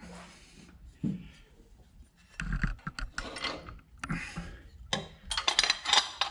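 Hand tools clicking and small metal parts knocking while the alternator's rear cover plate is being screwed on, with a dense run of rapid ratchet-like clicks near the end.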